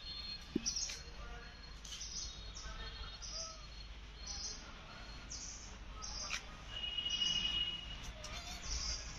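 Small birds chirping over and over in short high notes, with one longer whistled note about seven seconds in.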